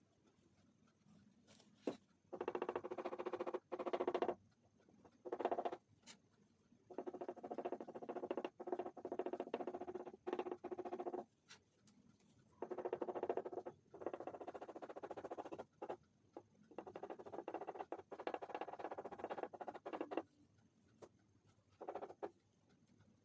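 Pastel crayon scratching over paper in runs of back-and-forth colouring strokes, each run lasting from under a second to a few seconds, with short pauses between.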